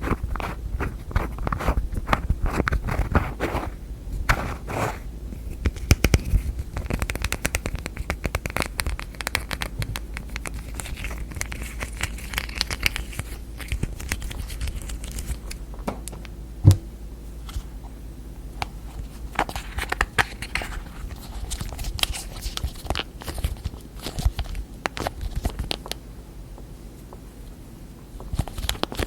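Fingernails tapping and scratching rapidly on containers and their lids: a dense run of quick clicks with stretches of scraping, and one sharper knock a little past halfway.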